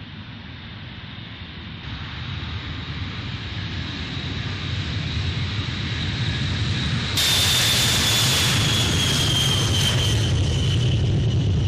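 Jet aircraft engines growing steadily louder, with a high whine over a low rumble. About seven seconds in, the sound jumps suddenly louder and the whine then sinks slowly in pitch, as a jet does when it passes.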